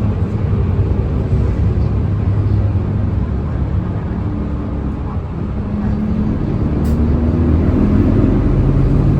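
Nissan Diesel Space Runner city bus's diesel engine running, heard from inside the cabin. Its note rises in pitch and gets louder over the second half as the bus picks up speed. There is a single sharp click near the end.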